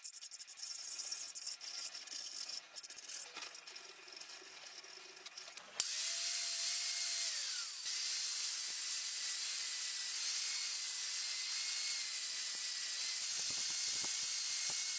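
Dense clicking and scraping of hand work on metal for the first six seconds. Then a steady spraying hiss starts suddenly and runs on.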